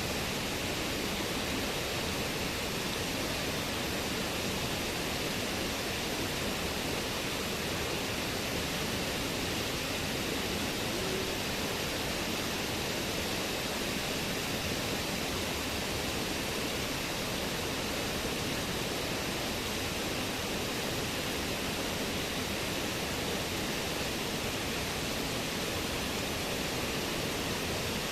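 Fast-flowing river water rushing over rocks, a steady unbroken hiss of water.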